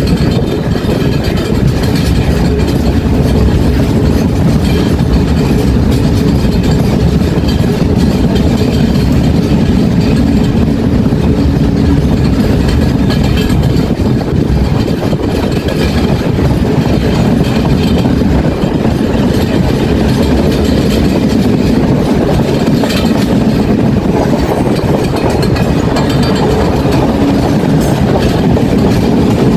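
Moving train heard from an open carriage doorway: a steady loud rumble and clatter of the carriage wheels running on the rails.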